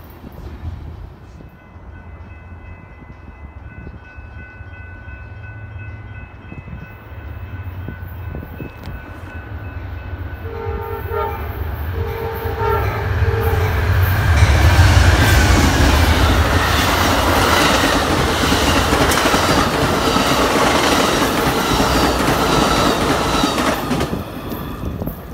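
Amtrak diesel passenger train approaching and passing close by: a low rumble builds, the locomotive sounds a few short horn blasts about halfway through, then the engine and wheels run loudly over the rails as the train goes past.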